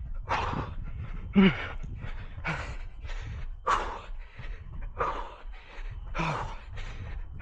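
A runner breathing hard mid-run: quick, heavy gasping breaths, about two a second, some with a short voiced grunt, over a low rumble.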